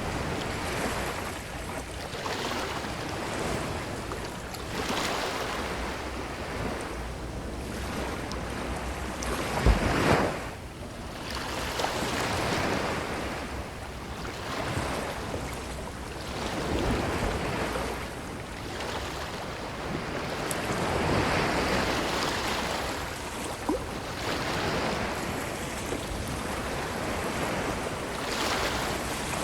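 Ocean waves washing up on a beach, the surf rising and falling every few seconds, with one louder surge about ten seconds in. Some wind noise on the microphone.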